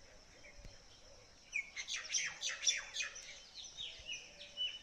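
Birds chirping: a quick run of high, downward-sliding chirps starts about a second and a half in, then thins to scattered calls.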